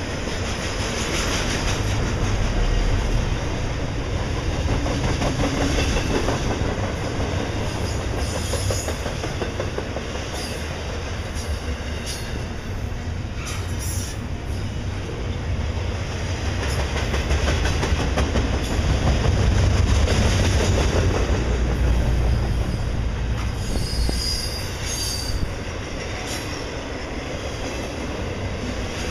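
CN double-stack intermodal container train rolling past: a steady low rumble and clatter of steel wheels on the rails, swelling about two-thirds of the way through. Brief high wheel squeals cut in a few times.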